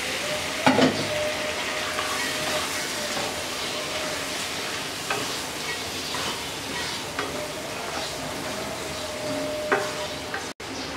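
Pangas fish heads sizzling in hot oil and spice paste in a wok while a wooden spatula stirs them, scraping and knocking against the pan now and then, loudest about a second in.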